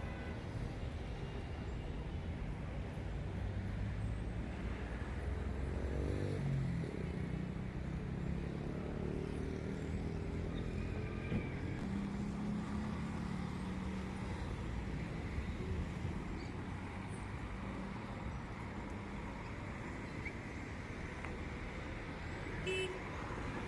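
Car driving, with steady engine and road noise; the engine pitch climbs about six seconds in and again a few seconds later as it speeds up.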